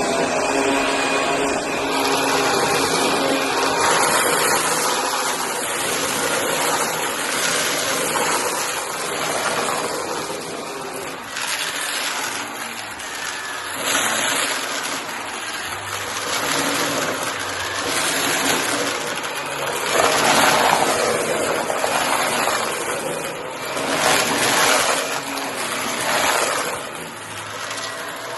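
Shark vacuum cleaner running and sucking up pieces of cardboard, with repeated rushes of noise every couple of seconds as bits go up the nozzle.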